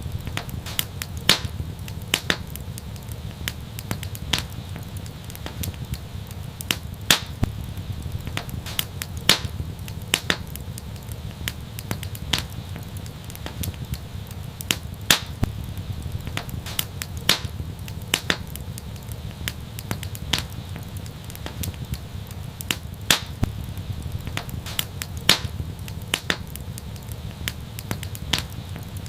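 Wood fire crackling: a steady low rumble of flames with frequent sharp pops and snaps, a few louder ones every couple of seconds.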